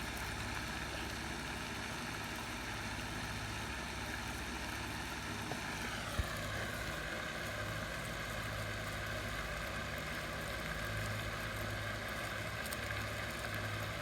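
An engine running steadily; about six seconds in its pitch drops smoothly and then holds at the lower speed.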